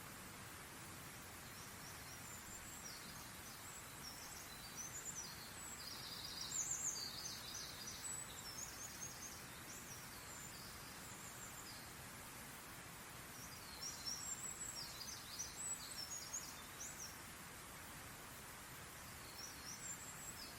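Birds chirping in short, high, rapid bouts, three times, over a steady background hiss.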